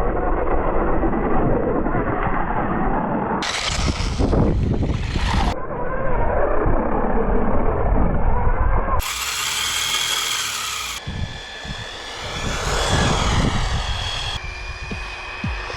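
WLToys 1/10 4WD electric RC cars driving fast on rough ground, heard in several short clips that change abruptly: tyre and gravel noise with the electric motor's whine rising and falling.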